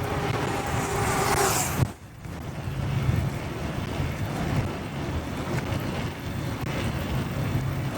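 Motorcycle engine running through city traffic with road noise. A louder rush builds over the first two seconds and cuts off abruptly, then the engine and traffic noise carry on steadily.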